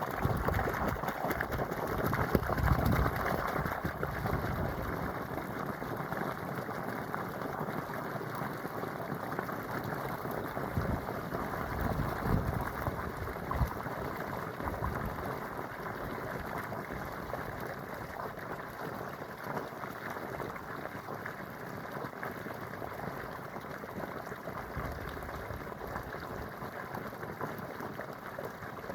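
Water flowing steadily with a continuous rushing, gurgling sound, broken by a few brief low rumbles.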